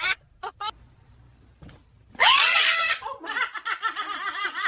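A loud, harsh shriek about two seconds in, followed by rapid, repeated cackling laughter.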